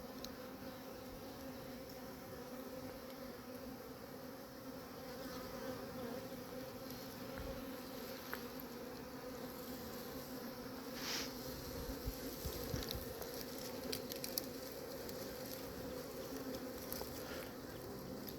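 Honeybee swarm buzzing: a steady hum of many bees.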